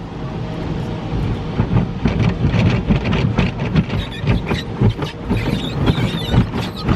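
Car wash top brush's foam cloth strips slapping and rubbing over the car, heard from inside the cabin, with some squeaks of the foam on the body in the second half.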